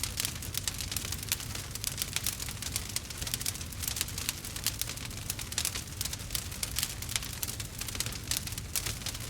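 Wood fire crackling and popping: a dense, irregular run of small sharp snaps over a steady low rumble.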